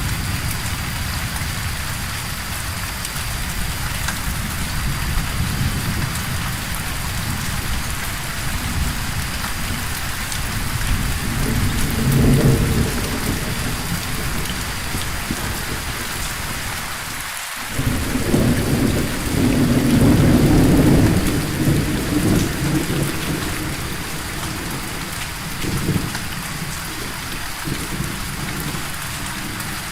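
Steady rain falling with rolls of thunder: a short rumble a little before the middle, a longer, louder roll just past the middle, and a smaller one later on.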